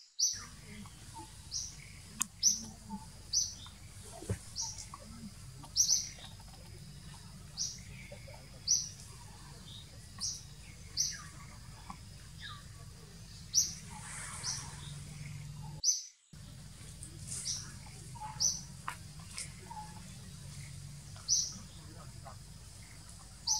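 A bird calling with short, high chirps, repeated every second or two over steady background noise.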